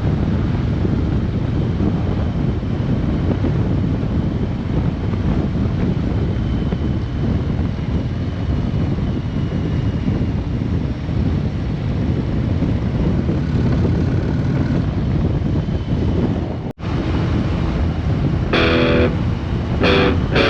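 Motorcycle on the move: a steady low engine and road rumble with wind noise on the microphone. After a brief cut near the end, guitar music starts.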